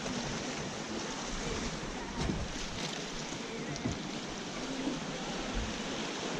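Sea surf washing steadily against the shore, with a few faint clicks.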